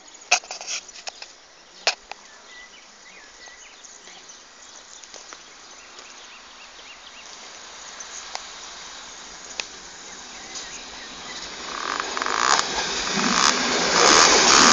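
ALn 776 diesel railcar approaching and running past, its noise rising steadily and loudest near the end. A few sharp clicks in the first two seconds.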